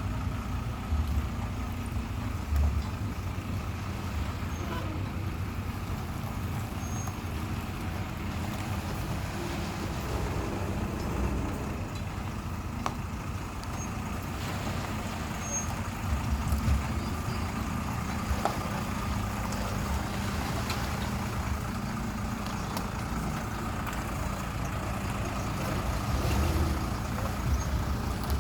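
Idling vehicle engines, a steady low hum, with a few brief low thumps.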